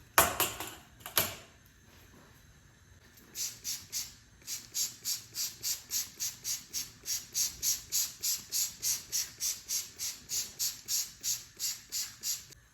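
Two sharp knocks, then quick, even scrubbing strokes with a hiss to them, about three a second.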